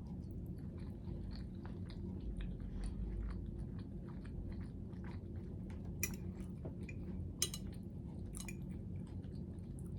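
A person chewing a mouthful of butter chicken and rice close to the microphone, with soft wet mouth clicks and a few sharper clicks about six, seven and a half and eight and a half seconds in.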